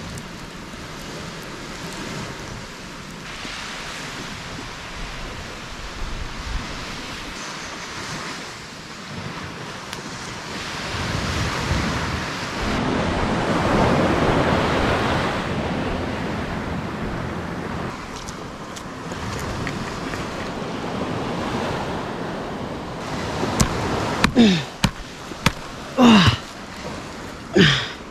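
Surf washing ashore with wind across the microphone, swelling partway through. Near the end, several loud strikes of a machete chopping into a coconut palm trunk.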